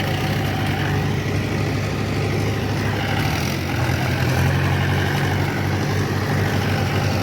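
Tractor diesel engine running steadily; its note shifts and gets slightly louder about three and a half seconds in.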